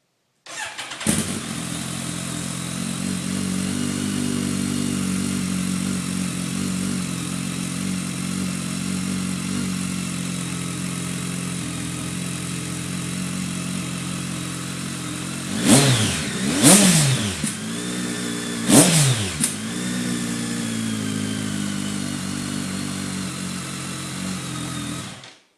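BMW K1300S inline-four engine idling through a GPR aftermarket exhaust, with the front dB-killer baffle removed and the rear baffle in place. It is blipped three times in quick revs, about 16, 17 and 19 seconds in, then drops back to a steady idle and cuts off suddenly near the end. It is a little louder than stock, but just barely, and maybe a little deeper.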